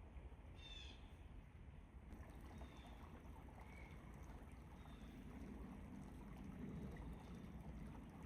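Faint, quiet forest ambience with a low steady rumble, a short bird call about half a second in and a few faint chirps after.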